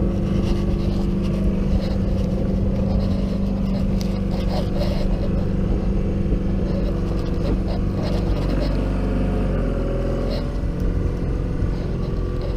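Sailboat's auxiliary engine running steadily while motoring into the wind, its note dropping and easing about three-quarters of the way through as it is throttled back.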